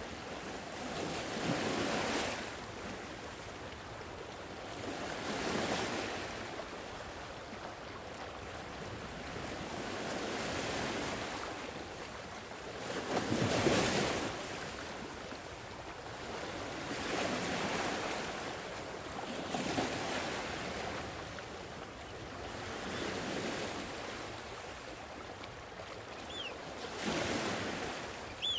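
Sea waves breaking and washing on a shore, swelling and ebbing about every four seconds, the biggest wave about halfway through. Two faint, brief high chirps near the end.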